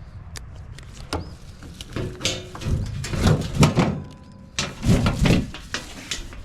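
Knocks, clatter and scraping of sheet metal as the service access panel of a heat pump's outdoor unit is worked loose and taken off, the loudest from about two seconds in to past the five-second mark.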